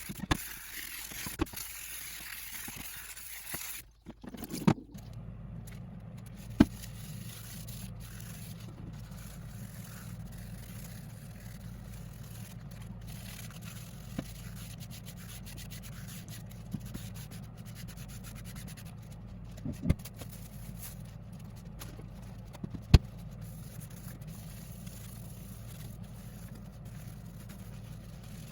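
Scraping and scrubbing on a Snow Peak stainless-steel fire pit for the first four seconds or so, then a low steady hum broken by a few sharp knocks.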